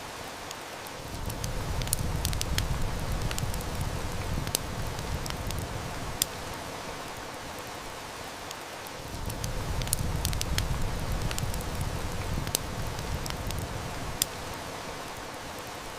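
Steady heavy rain with the sharp snaps and pops of a wood fire scattered through it. A low rumble swells in twice, each time for several seconds.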